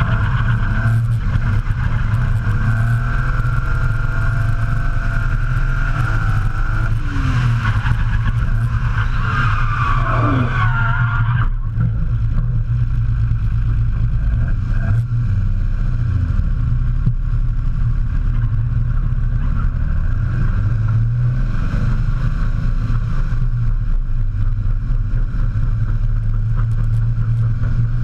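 Drift truck's BMW S38 straight-six engine running hard, with wavering tyre squeal over it through the first eleven seconds or so, which falls away and stops about twelve seconds in, leaving the engine running on its own.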